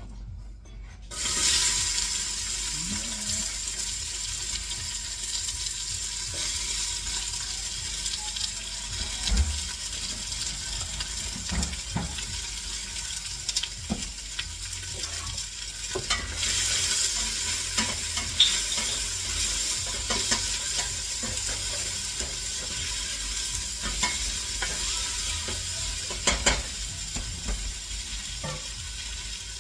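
Ginger and garlic sizzling in hot oil in a pan, the sizzle starting suddenly about a second in as they go in and running on steadily while being stirred, with scattered clicks and scrapes of the utensil against the pan.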